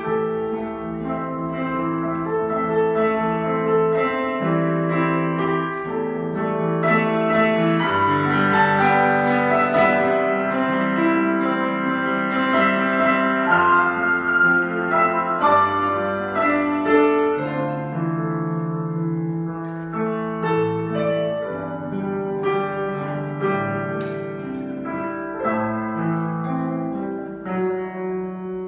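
Slow instrumental piano music, with held notes and chords changing about once a second.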